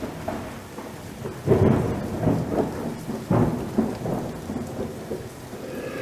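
Rain falling with several rumbles of thunder, the loudest about a second and a half in.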